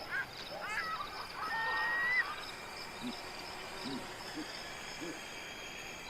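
Wild animal soundscape. A cluster of quick chirping, gliding calls and a short whistle come in the first two seconds, followed by a few short low calls over a steady high background chorus.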